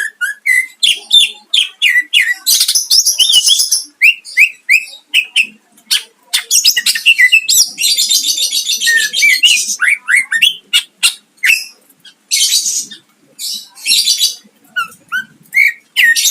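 Cucak ijo (greater green leafbird) singing at full tilt: a fast run of short chirps and whistled notes broken several times by long, harsh, buzzing rattles, the rough 'tembakan' bursts of its song.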